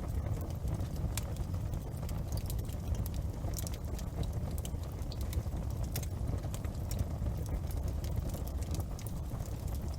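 Large bonfire burning: a steady low rumble of flames with scattered sharp crackles and pops throughout.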